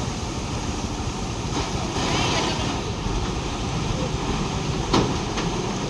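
Heavy vehicle engine running steadily with a low rumble under wind noise on the microphone, with a short knock about five seconds in.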